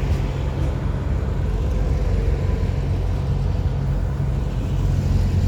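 Freight train wagons rolling slowly past at low speed: a steady low rumble of steel wheels on the rail, with a faint steady whine above it.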